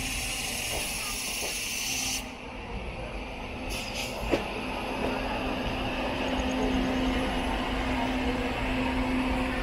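Steady running noise of a passenger train coach heard from on board as it draws into a station, with a steady low hum and one sharp knock about four seconds in.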